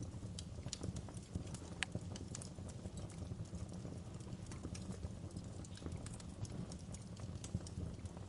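Wood fire crackling in a fireplace: irregular sharp pops and snaps over a low steady rumble of the flames, with one louder pop about two seconds in.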